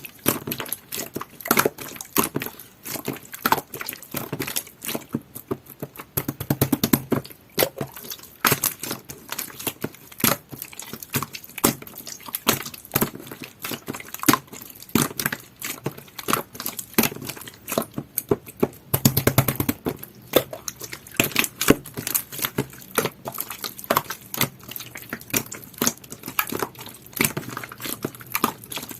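Pink clear slime with a jelly-like texture being squished and pressed by hand, giving a dense run of irregular sticky pops and clicks with a few heavier squelches.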